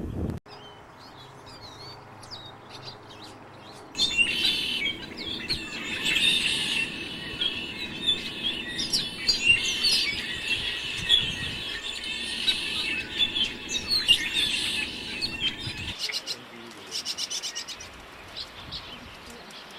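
Songbirds chirping and singing in quick high notes: quieter at first, then a dense stretch of many overlapping chirps from about four seconds in, then a fast dry chatter of repeated notes near the end.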